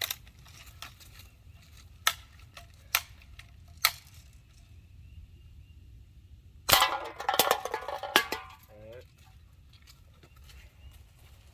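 Three sharp clicks about a second apart, then a loud crack followed by about a second and a half of clattering, like aluminium cans knocked over and tumbling in a BB-gun bowling game.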